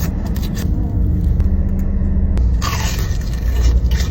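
Close-up eating sounds of Korean-style fried chicken: biting and chewing, with a crisp crunch about three seconds in. A steady low rumble and hum runs underneath.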